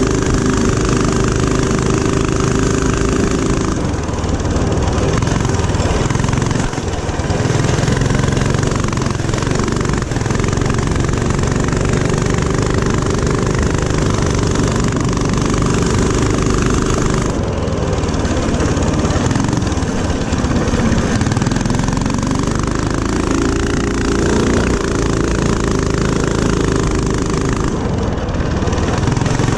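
Small single-cylinder four-stroke mini-bike engine running hard around a track, its pitch rising and falling as the throttle opens and closes, with a few brief let-offs.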